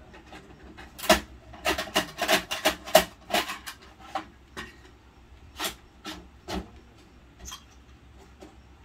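Plastic toy garbage truck and bin clattering as they are handled: a quick run of sharp knocks and rattles between about one and four seconds in, then a few separate clicks.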